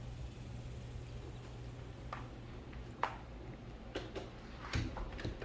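Scattered knocks and clicks of someone walking back indoors from a deck, over a steady low hum; the knocks are irregular and start about two seconds in.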